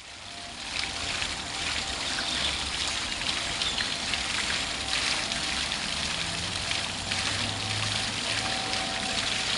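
Steady rush of running water that fades in over the first second and then holds level.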